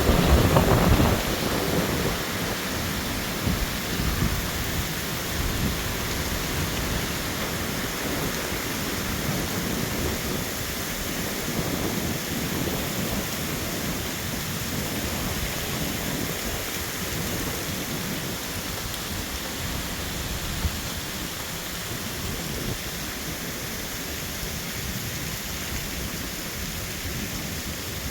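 Storm wind rushing hard, with a loud low gust at the start and then a steady roar that eases a little toward the end.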